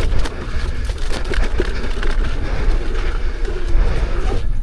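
Wind buffeting the microphone over the rumble and rattle of a Leaperkim Lynx electric unicycle ridden fast over a dirt trail, with many small clicks and knocks from the rough ground. It briefly eases just before the end.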